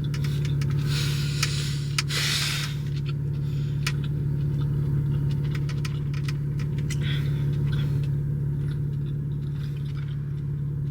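Car engine idling, heard from inside the cabin as a steady low hum. Brief rustling and clicks come over it about one to three seconds in and again around seven seconds.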